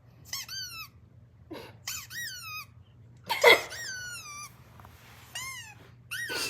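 Short high-pitched squeaky calls in quick runs of several, each rising then falling in pitch, with a louder, noisier squeal about three and a half seconds in.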